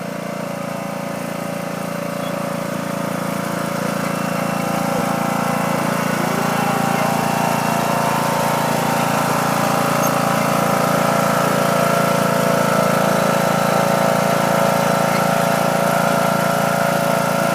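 Tractor engine running at a steady speed, growing gradually louder over the first several seconds and then holding even.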